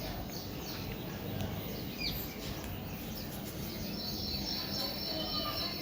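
Birds chirping outdoors, with short sliding calls about two seconds in and a steady high-pitched trill from the middle to the end, over a constant low background rumble.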